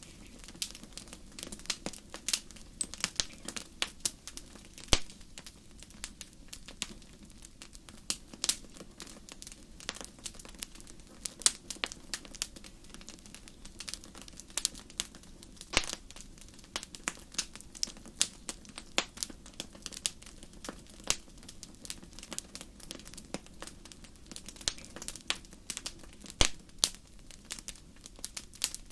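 Fire crackling in a fireplace: a dense, irregular run of sharp pops and snaps, a handful of them much louder, over a steady low rushing of the flames.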